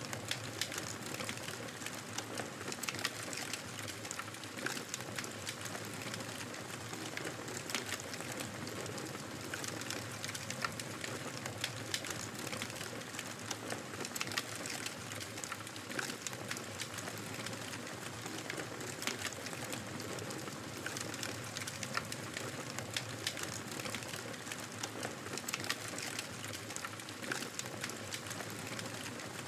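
Wood fire crackling in a fireplace: a steady hiss dotted all through with many small sharp pops and snaps.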